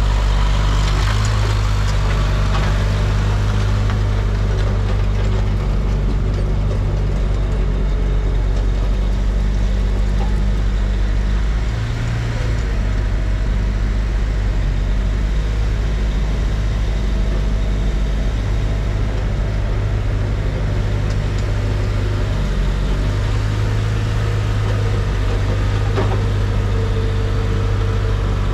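A motor vehicle engine idling steadily, with a low, even drone and a brief change in tone about twelve seconds in.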